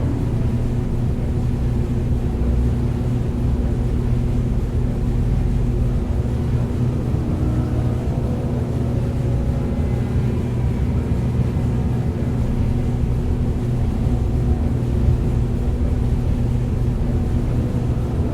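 A steady low hum with a rumble beneath it, unchanging throughout.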